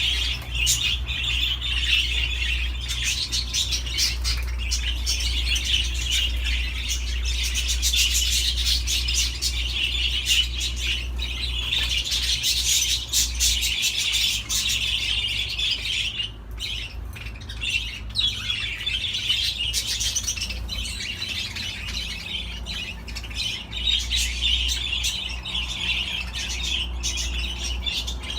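Budgerigars chattering and warbling continuously, with short squawks and chirps mixed in, over a steady low hum.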